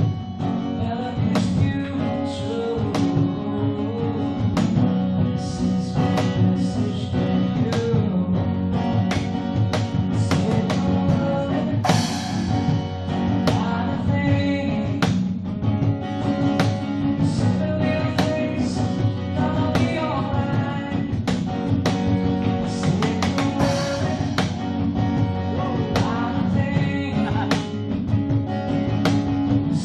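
Music: a song played on guitar with a drum kit and singing.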